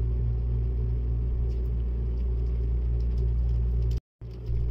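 Steady low rumble of a Seibu Laview (001 series) limited express train under way, heard from inside the passenger cabin, with a faint steady hum over it. The sound cuts out completely for a moment about four seconds in, then returns.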